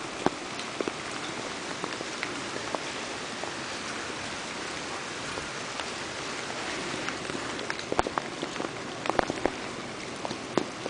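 Steady rain falling, with scattered sharper drops and taps, several close together near the end.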